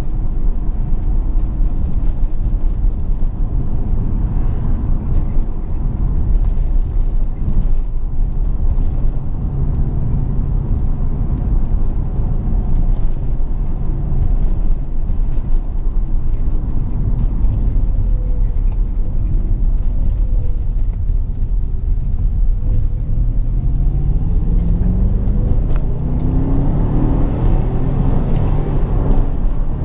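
BMW 650i V8 engine running with road noise while driving. In the last several seconds the engine note rises steadily as the car accelerates.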